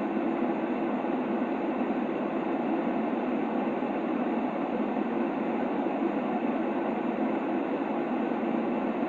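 Steady white-noise track for baby sleep: a constant, unchanging rushing hiss with most of its weight in the lower middle and little treble, so it sounds muffled.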